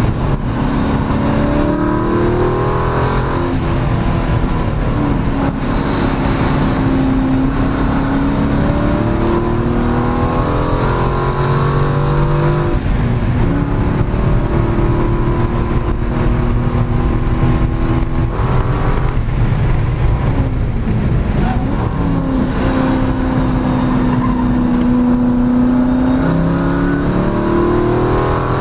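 Car engine under hard driving on a race track, heard from inside the cabin: the engine note climbs under acceleration and drops back at each shift or braking point, several times over, over a steady rush of noise.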